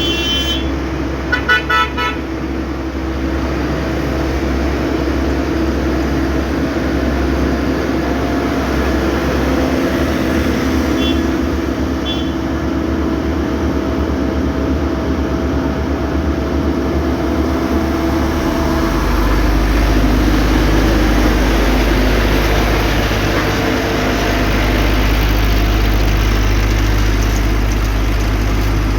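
Motor vehicle engine running steadily, with its low drone shifting in pitch about two-thirds of the way through. A few short horn toots sound about a second or two in, and two faint short beeps come around the middle.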